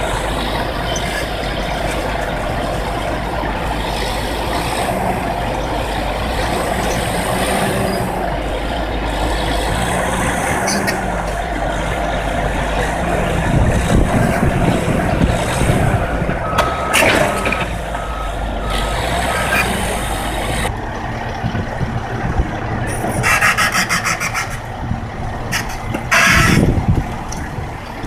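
Heavy construction machinery with diesel engines running steadily. A reversing alarm beeps repeatedly at one pitch for a few seconds past the middle, and there are a few louder knocks near the end.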